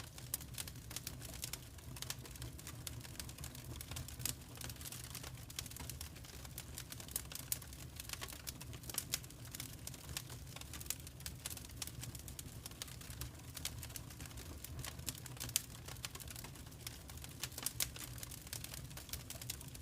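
Wood fire crackling in a fireplace: irregular small pops and snaps, several a second, over a low steady rumble.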